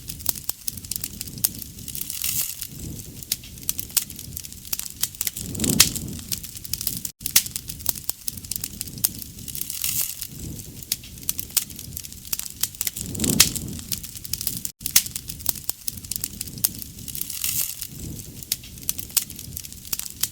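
Wood fire crackling and popping, with dense sharp snaps and the sound swelling in loudness every few seconds.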